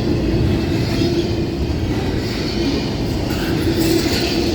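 Freight cars of a Union Pacific manifest train rolling past, a steady rumble of steel wheels on rail, with the end of the train near.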